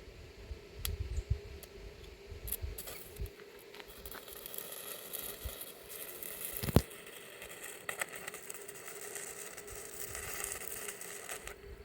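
Electric arc welding on an iron gate: the arc crackles and sizzles irregularly, with a steady hum underneath. A single sharp metallic knock about seven seconds in.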